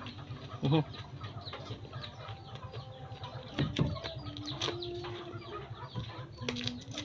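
Close-up wet chewing and mouth clicks as cooked okra is bitten and eaten, with chickens clucking in the background and a louder call a little past halfway.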